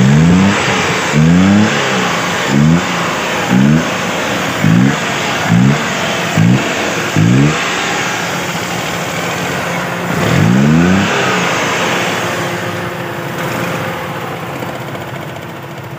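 A 1991 Suzuki Margalla's engine is being revved in short throttle blips about once a second, then given one longer rev a few seconds later, and then it settles back to a steady idle. This is an engine sound check.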